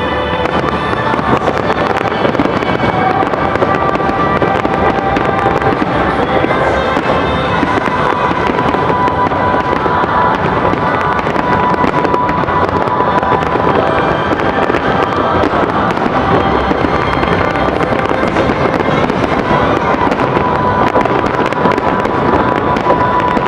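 Fireworks finale barrage: many aerial shells bursting in rapid, overlapping succession with dense crackling and no pause.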